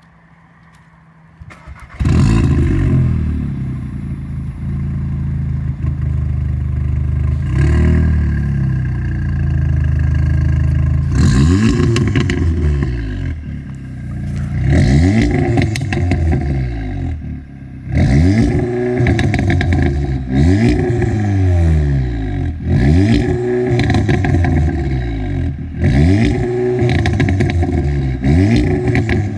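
Audi S3 8V's tuned turbocharged 2.0-litre four-cylinder engine and exhaust coming in loud about two seconds in, the revs climbing and falling over and over, every two to three seconds, with crackles and pops on the exhaust.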